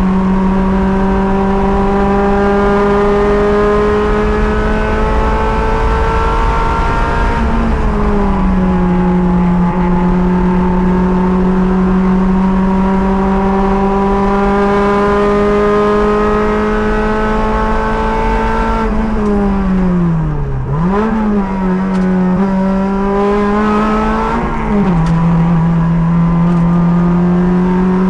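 Race car engine running hard at high revs, its note climbing slowly as the car gathers speed. The pitch drops in a step about seven seconds in and again near the end, as at gear upshifts. Around twenty seconds in the revs fall away, jump up briefly and settle again, as when lifting off, braking and downshifting for a corner.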